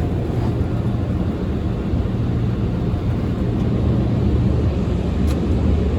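Car wash air-dryer blowers heard from inside the car's cabin: a steady, muffled low roar.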